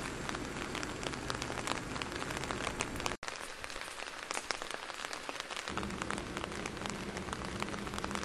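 Steady rain falling, with many small sharp drop ticks, cutting out for an instant about three seconds in.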